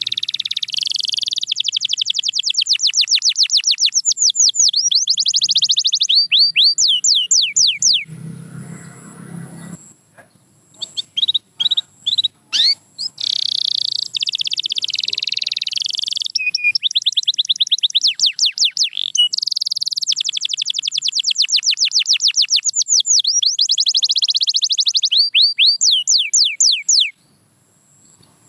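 Domestic canary singing long song phrases of rapid high trills and sweeping notes, in two long phrases with a pause of a couple of seconds about a third of the way in.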